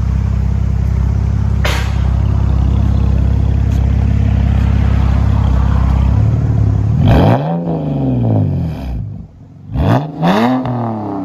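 2010 BMW 128i's 3.0-litre straight-six exhaust, through a 2.5-inch true dual system with a Cherry Bomb glass pack, droning at a steady held engine speed for about six seconds, then dropping away. Two short throttle blips follow, each rising and falling in pitch.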